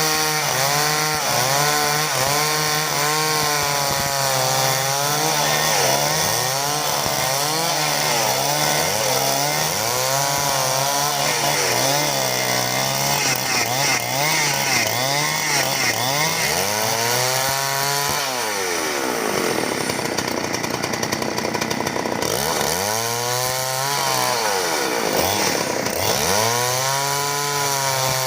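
Two-stroke chainsaw cutting through timber, its engine speed wavering up and down under load. About two-thirds through, the engine speed drops sharply, then climbs back.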